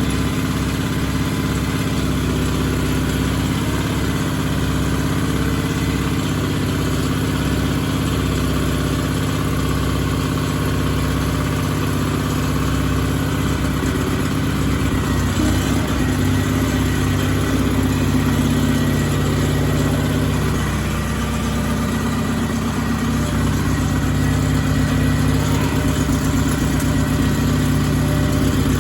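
Sears Suburban loader tractor's engine idling steadily just after starting, on its first run in about a month. Its speed dips briefly about twenty seconds in, then picks back up.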